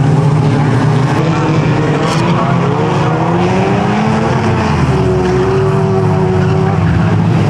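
Several street banger car engines revving hard together as the cars race round a short oval, with their pitches rising and falling over one another.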